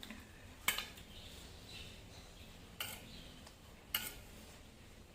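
Cutlery clinking against a dish three times while someone eats, each a short sharp tap, a second or so apart.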